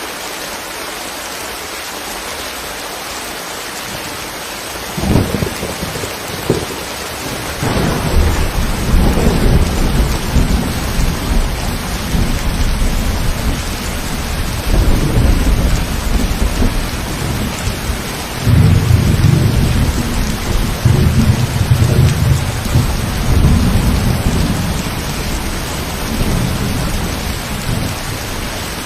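Steady heavy rain, then thunder: sharp cracks about five seconds in, followed by a long, low rolling rumble that swells and fades in waves over the rain.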